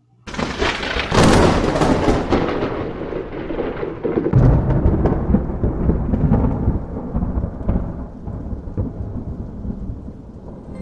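Thunder: a sudden crack just after the start, then a rolling rumble that swells again about four seconds in and slowly fades.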